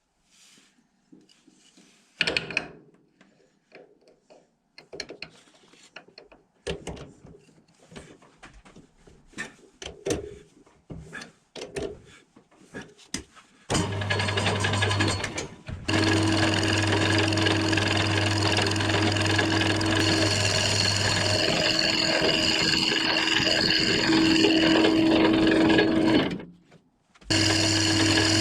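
Scattered clicks and knocks of parts and tools being handled. About halfway in, an electric power tool starts, running steadily with a low hum and a whine. It cuts out briefly twice and starts up again.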